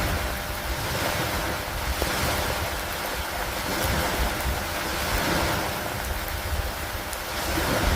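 Steady rain falling on a wooden dock over lake water, with wind and water swelling and easing every few seconds under a low rumble.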